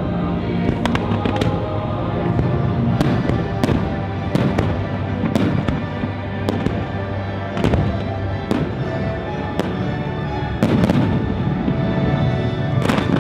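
Aerial fireworks shells bursting in a quick, irregular string of sharp reports, several a second at times, with music playing steadily underneath.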